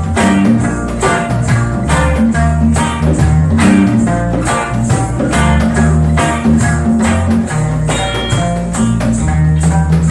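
Live reggae band music: plucked and strummed strings over a steady bass line, with strums recurring at an even beat.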